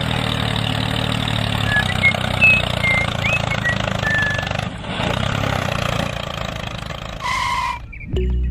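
Small tractor engine running steadily, with a short beep-like tone near the end.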